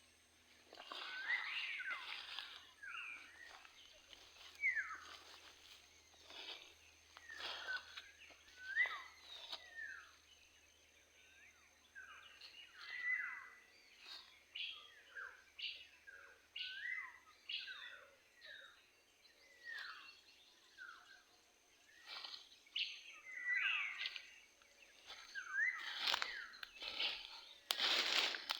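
Birds chirping: many short sweeping chirps, irregular and overlapping, with a faint steady high tone behind them and a brief rustling burst near the end.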